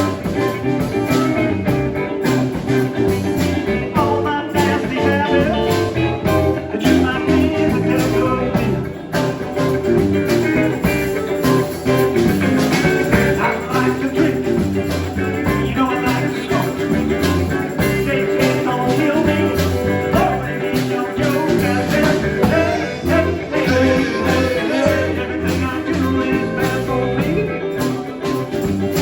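A live band playing a blues number, guitar to the fore over a steady beat.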